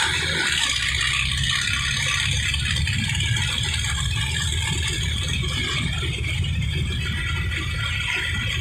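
Tractor engine running steadily while under way, with a constant rattle.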